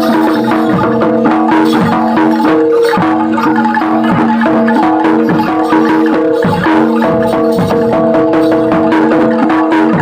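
Live Indonesian percussion ensemble music, gamelan-style: tuned metal instruments ring on steady pitches while struck percussion keeps a regular beat.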